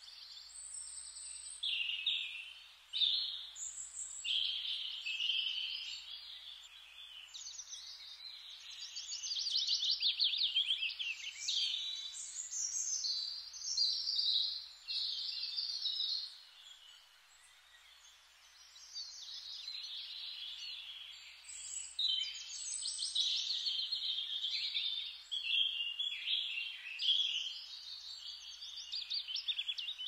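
Small songbirds chirping and twittering, several calls overlapping in quick trills, with a quieter lull about halfway through.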